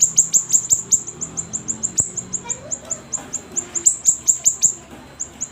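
A songbird known to Indonesian bird-keepers as siri-siri, singing actively: a fast, steady run of short, high, downward-sweeping chirps, several a second, with a brief pause near the end.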